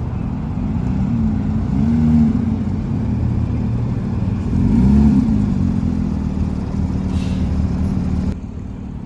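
Car engine running nearby with a low, loud note whose pitch rises and falls twice, swelling about two and five seconds in, as it is revved or pulls past.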